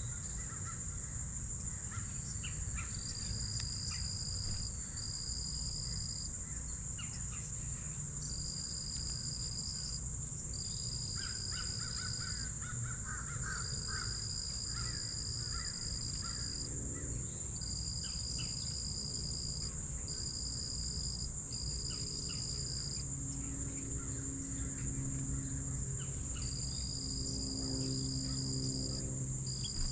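Outdoor ambience of insects and birds: a steady high insect drone, with a second insect trill coming and going in stretches of a second or two, and scattered bird calls, including a quick run of short notes about eleven seconds in.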